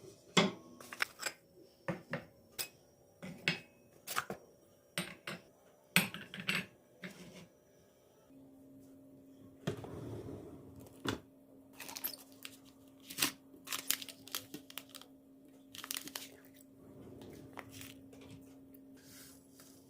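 A series of sharp clicks and knocks from household objects being handled, some close together and some spaced out. A steady low hum starts about eight seconds in and continues under the knocks.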